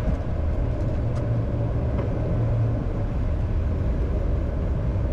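Steady low rumble of airflow noise in a Bombardier Challenger 605 cockpit, with the landing gear extending on approach.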